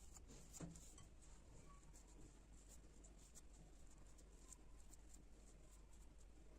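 Near silence: room tone with a low steady hum and faint, scattered small clicks and scratches.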